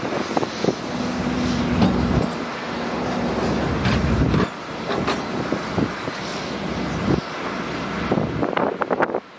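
Diesel engine of a heavy earthmoving machine running under load, with repeated metallic clanks and knocks from the working machine. The sound changes abruptly a couple of times.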